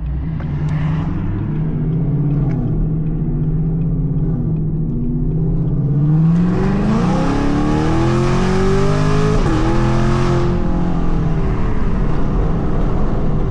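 2024 Ford Mustang GT's 5.0 V8 with Kooks headers, loud and running steadily, then revving up in a short burst of acceleration about six seconds in. The pitch climbs, then it eases off again around ten seconds.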